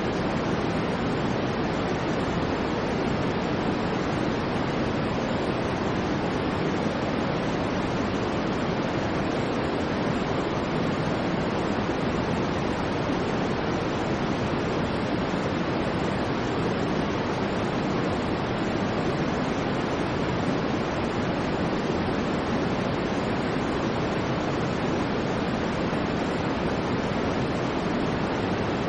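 Continuous white noise, steady and unchanging throughout, with most of its weight low so that it sounds like a soft, even rush rather than a bright hiss.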